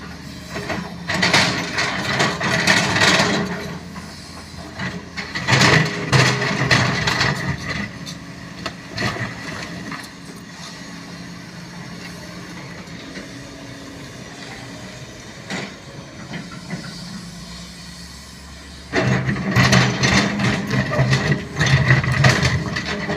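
Sany SY215C hydraulic excavator working. The diesel engine loads up in loud stretches with knocks and scraping, runs quieter and steadier for several seconds in the middle, then loads up sharply again near the end.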